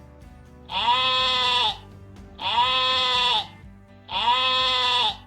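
Sheep bleating three times, each bleat about a second long and wavering.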